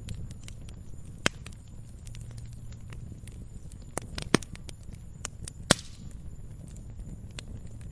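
Wood campfire crackling: scattered sharp pops and snaps over a low steady rumble, the loudest pops about a second in, at about four seconds and near six seconds.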